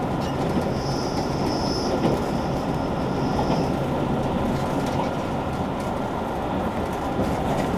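JR Kyushu 883-series Sonic electric train running at speed, heard from inside the car: a steady rumble of wheels and motors on the rails. A thin high whistle starts about a second in and stops after about three seconds.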